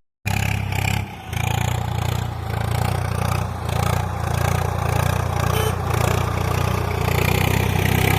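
An engine running steadily at a fast, even idle, with a short dip in level about a second in.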